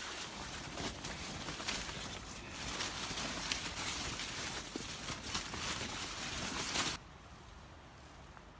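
Footsteps through vegetation with a steady outdoor hiss. The sound cuts off suddenly about seven seconds in, leaving only a faint background.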